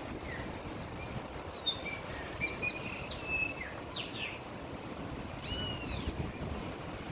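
Birds calling: a run of short, high chirps and whistles, some sliding down in pitch, with a couple of arched calls near the end, over a steady outdoor background rumble.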